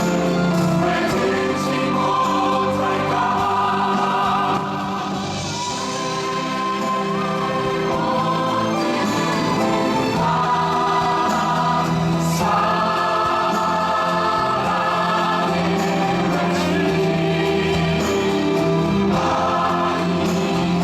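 Several voices singing a stage-musical number together with instrumental accompaniment, the sung notes held with vibrato. The sound drops a little in loudness about five seconds in, then builds back up.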